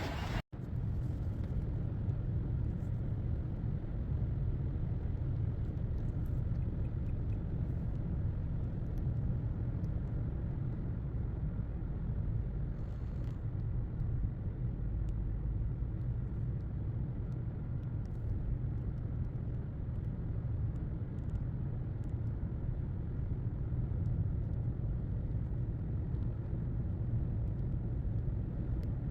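Steady low rumble of a car driving along the road, heard from inside the car.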